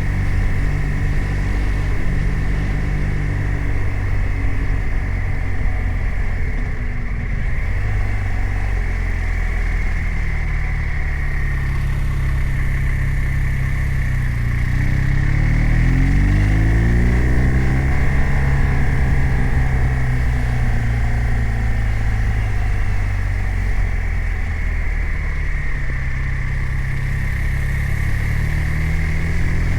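BMW R 1250 RT's boxer twin engine running under way, its revs climbing about halfway through and then easing off, and climbing again near the end.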